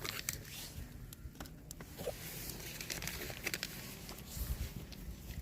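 Crinkling and rustling of something being handled, with scattered small clicks and knocks.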